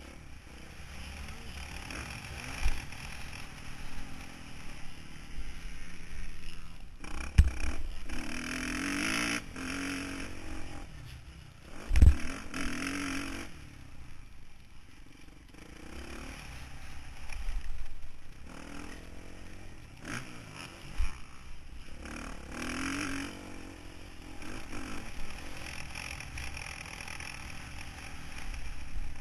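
Motocross bike engine heard from a camera mounted on the bike, revving up and dropping back again and again through a lap. Heavy thumps break in now and then, the loudest about seven and twelve seconds in.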